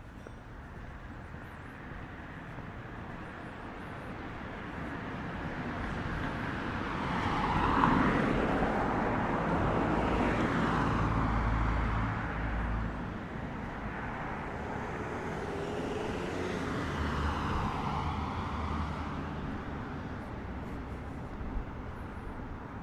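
Motor vehicles passing on a city street: engine and tyre noise swells up to a peak about a third of the way in and holds for a few seconds, then a second vehicle passes a few seconds later and fades away.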